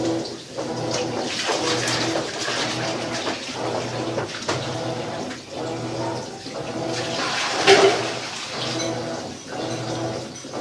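Maytag top-load washing machine agitating: water sloshing over a motor hum that swells and breaks in an even back-and-forth rhythm, a little under one stroke a second, with one louder slosh near the end.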